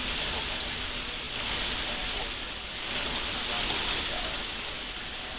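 Heavy rain pouring down in a severe thunderstorm: a steady hiss that swells and eases every second or two.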